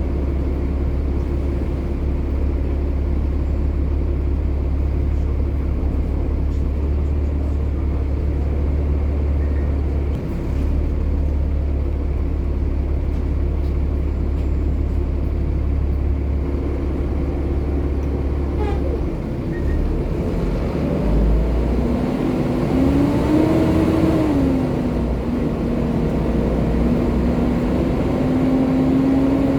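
Volvo B7TL double-decker bus's seven-litre six-cylinder diesel idling with a steady low drone, then about 19 seconds in the bus moves off: the engine note changes and a whine rises, dips back and then holds steady as it drives.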